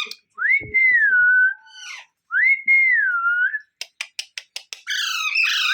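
Pet parrot whistling: two clear whistles, each rising then sliding down. A quick run of sharp clicks follows, then a burst of harsh chatter near the end.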